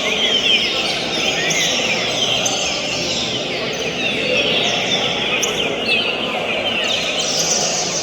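Green-winged saltators (trinca-ferro) singing at once: a dense, continuous stream of quick falling whistled notes overlapping one another, over steady background noise.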